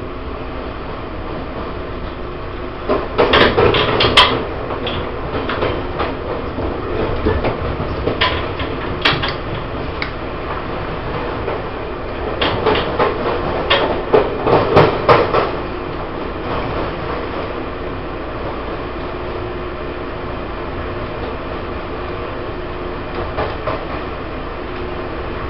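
Taiwan Railways E1000 push-pull Tze-Chiang express train running, a steady rolling rumble broken by two clusters of loud wheel knocks over the track, about three seconds in and again from about twelve to fifteen seconds in, with a few single knocks between.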